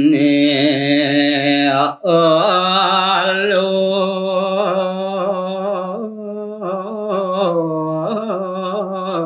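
A man singing a Balinese geguritan verse solo in the pupuh Sinom meter, in long held, wavering, ornamented notes. He takes a short breath about two seconds in.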